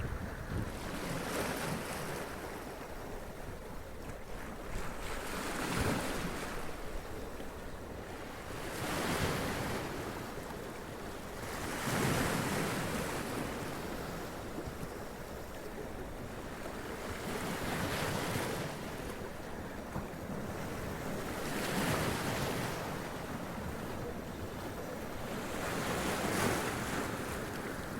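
Sea waves running up over rocks and splashing, each wash swelling and falling back, about seven surges a few seconds apart.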